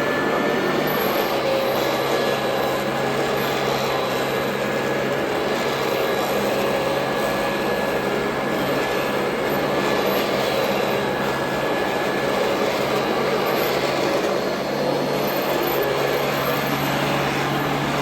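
Royal Model 2008 upright vacuum cleaner running steadily: a constant motor tone held over the hiss of the airflow, with no break or change in speed.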